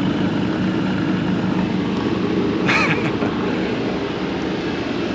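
Steady hum of a running generator engine, with a short high-pitched sound about halfway through.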